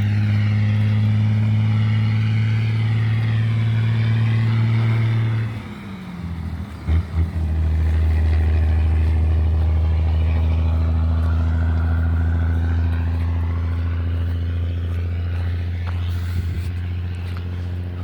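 An engine running steadily; about five and a half seconds in it drops off and changes pitch, two short knocks follow, and then it runs steadily again at a slightly lower pitch.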